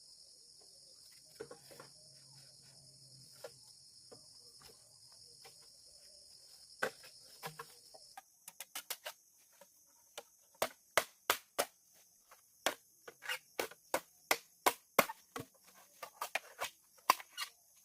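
Insects chirping steadily in the background, then from about ten seconds in a run of sharp strikes, about three a second, like a tool chopping or hammering.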